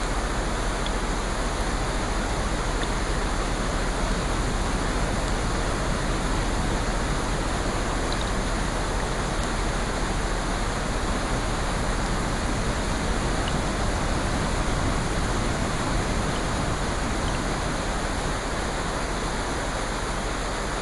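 Steady rushing rain with no rise or fall, and a few faint scattered ticks of individual drops.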